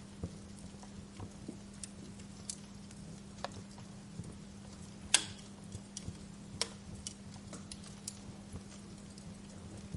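Wood fire in a fireplace crackling: irregular small pops and snaps over a soft hiss, with one loud pop about five seconds in and another a second and a half later. A steady low hum runs underneath.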